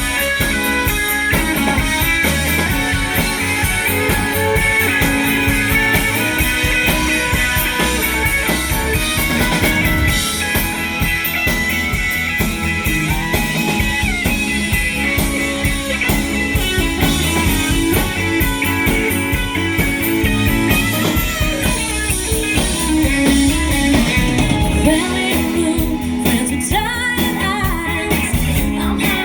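Live band music with guitar, a drum kit and a singer.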